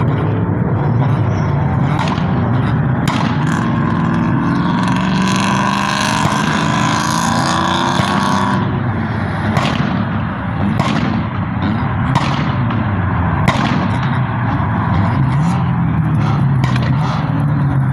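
Car engines revving up and down, with sharp cracks like exhaust pops scattered through; a louder high hiss joins from about four seconds in and stops near eight and a half seconds.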